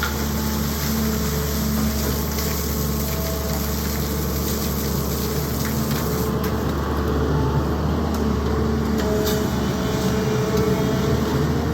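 Sany excavator's diesel engine running under load with its hydraulics working: a steady low drone with whining tones that come and go, a few faint knocks, and a slight rise in loudness about halfway through.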